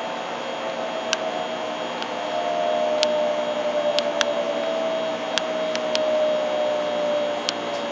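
Shinkansen 700 series Rail Star train running, heard from inside the car: a steady hum and rushing noise with a whine that slowly falls in pitch, and a few sharp clicks scattered through.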